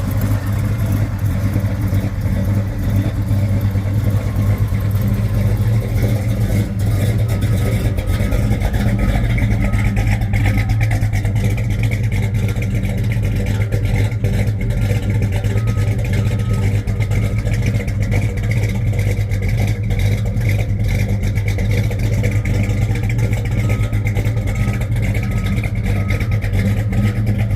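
The 429 Super Cobra Jet V8 of a 1970 Ford Torino Cobra running loudly at a steady speed, its pitch holding even throughout.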